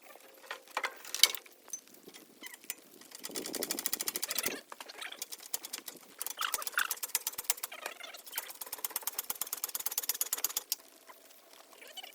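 Rapid, even mechanical clicking in two runs, a short one about three seconds in and a longer one of about four seconds later on, with a few single clicks before them.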